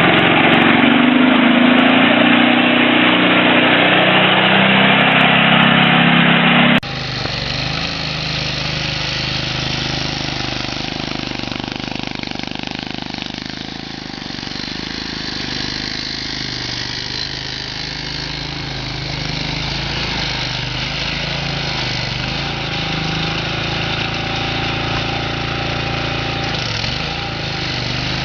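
Engines running steadily, changing pitch now and then. About seven seconds in, the sound cuts abruptly to a different, quieter engine.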